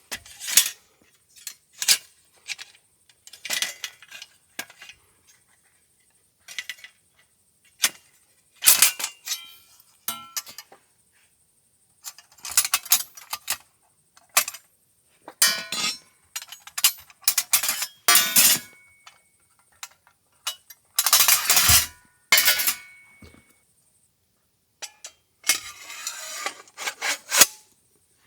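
Intermittent clinking and clattering of camp gear being handled, in short bursts separated by silent gaps.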